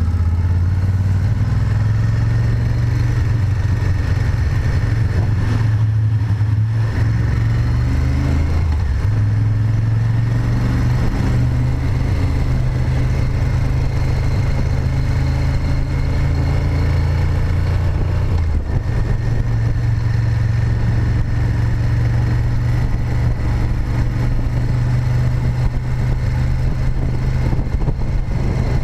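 Moto Guzzi Griso 8V SE's V-twin engine running under way, heard from a camera on the bike with wind and road noise. The engine note shifts twice, about a quarter of the way in and again past the middle.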